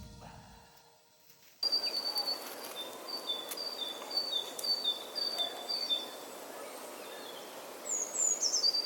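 Background music fading out, a moment of silence, then forest ambience with a bird calling a high whistled note pair over and over, a few pairs every second, and a quick run of falling chirps near the end.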